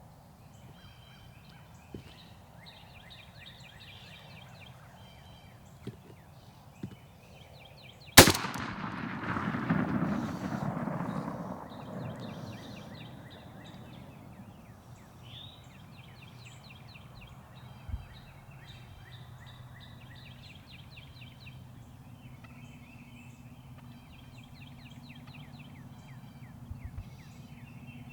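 A single loud shotgun blast about eight seconds in, followed by a few seconds of low rumbling noise as it dies away. Small birds chatter in rapid high notes before and after it.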